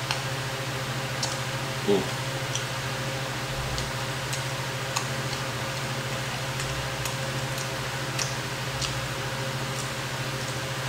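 Close-miked chewing of crispy fried chicken dipped in sauce: scattered small crunches and wet mouth clicks over a steady low hum, with a short vocal sound about two seconds in.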